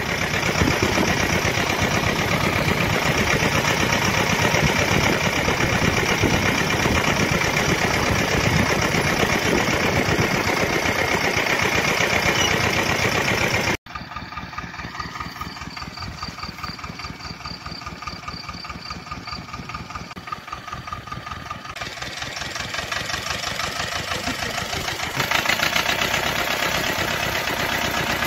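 Engine of a homemade tractor running steadily and loudly. About halfway through it breaks off abruptly and resumes quieter, then grows louder again in two steps toward the end.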